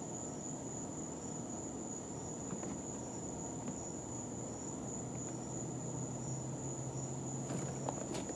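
A steady high-pitched whine over an even low hiss, with a few faint clicks near the end.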